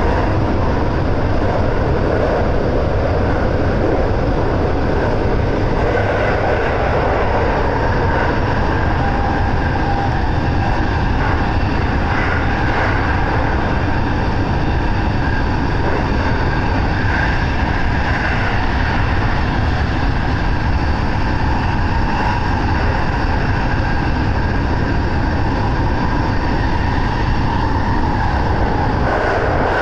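JR West 223 series electric train running at speed through a tunnel, heard from inside its front car: a steady, even rumble of wheels and running gear, with faint wavering higher tones over it.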